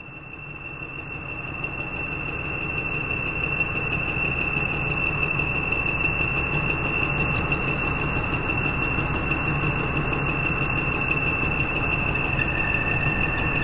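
A steady high-pitched whine over fast, even ticking and a low hum, fading up over the first two seconds, with a second, lower tone joining near the end: a mechanical whir at the opening of an old homemade movie's soundtrack.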